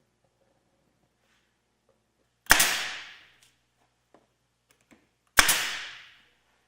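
Pneumatic air stapler firing twice, two sharp shots about three seconds apart, each with a short fading tail, driving staples into the cedar roof.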